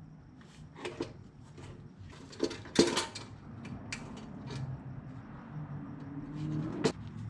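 Scattered metallic clinks and knocks, the loudest about three seconds in, over a faint low hum.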